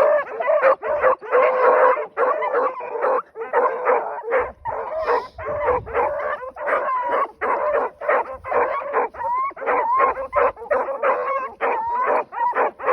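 A pack of young hunting hounds baying and bawling together, several voices overlapping in quick, steady calls: the pups opening on the run with their hound mouths.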